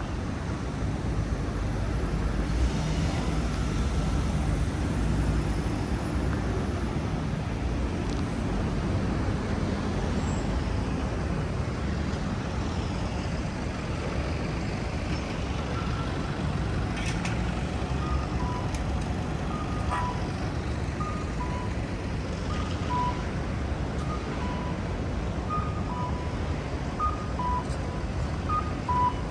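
Steady city street traffic rumble. From about halfway through, a pedestrian crossing signal sounds, repeating short electronic tones that alternate between two pitches.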